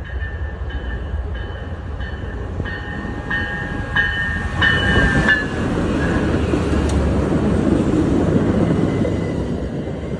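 A train passing, its rumble building through the second half. A repeated ringing, about one and a half strikes a second, stops about five seconds in.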